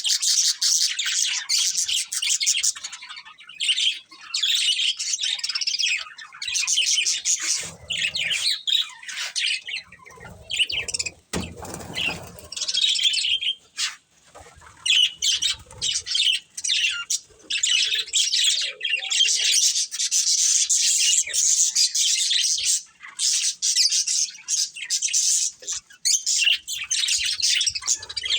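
Pet budgerigars chirping and chattering in fast, continuous warbles, with a brief thinner lull about halfway through.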